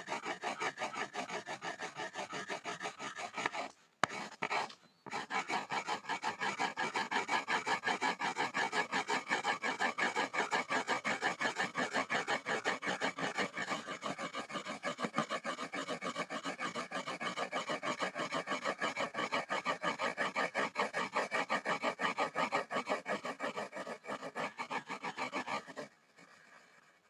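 Pencil scribbling on a wooden board in fast back-and-forth strokes, several a second, giving a dry rasping scratch. It breaks off briefly about four seconds in and stops about a second before the end.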